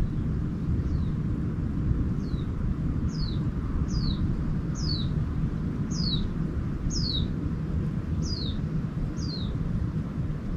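A small songbird repeating a short, high, downward-slurred call about nine times, roughly one per second, faint at first, loudest mid-way, then fading. Underneath runs a steady low rumble.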